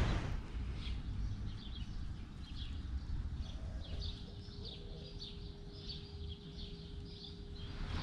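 Small birds chirping in quick, repeated short calls, over a low outdoor rumble; a faint steady hum comes in about halfway through.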